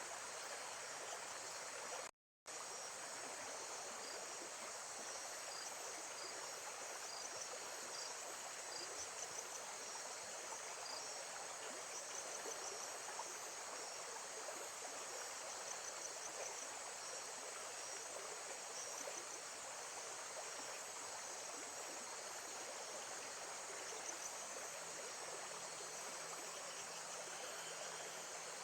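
Lake-side nature ambience: a steady wash of flowing water with insects chirping in high, rapid pulses. There is a brief total dropout to silence about two seconds in.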